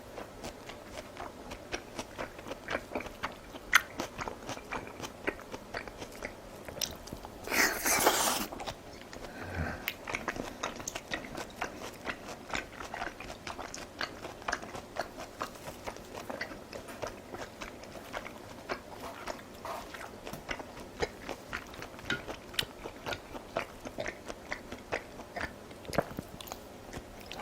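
Close-miked mukbang eating: steady chewing with many small wet clicks and crunches, and one louder, longer burst of noise about eight seconds in.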